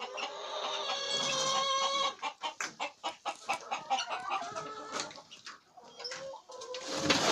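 Chickens clucking in a coop, with one drawn-out call about a second in and more short calls later, among many sharp ticks and clicks. A louder rustling burst comes near the end.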